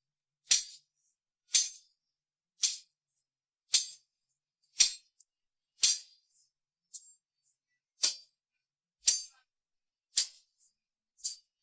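Isolated tambourine track separated out of a mix: single tambourine strikes about once a second, each a bright jingle crash that dies away quickly into silence.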